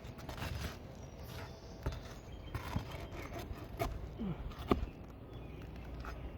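Hand tool scraping and prying at asphalt roof shingles, with irregular rubbing and scattered clicks and a couple of sharper knocks about four and four and three-quarter seconds in.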